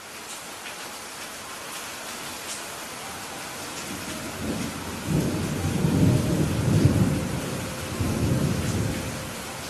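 Steady heavy rain with a long roll of thunder that builds about four seconds in, is loudest midway and dies away near the end.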